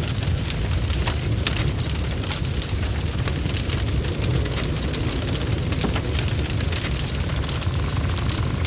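Wood fire crackling: a steady low rumble of flames with frequent sharp snaps and pops scattered throughout.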